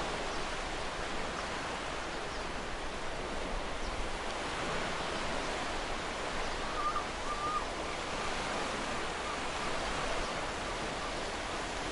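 Ocean surf washing steadily on a beach, an even rushing noise without clear breaks between waves. Two faint, short wavering high notes come through the wash about seven seconds in.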